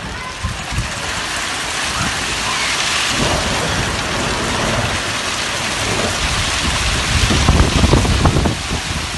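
Heavy rain pouring in a thunderstorm with strong wind, a dense steady hiss with deep rumbles that grow louder near the end.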